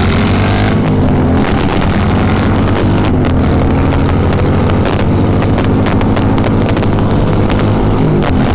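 V-twin cruiser motorcycle engines accelerating hard through the gears at high speed, the pitch climbing after a shift and dropping briefly near the end at another shift. Heavy wind buffets the microphone.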